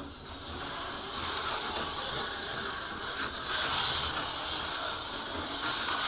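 HO-scale slot car's small electric motor whining as the car runs on the track, its pitch rising and falling with speed about twice.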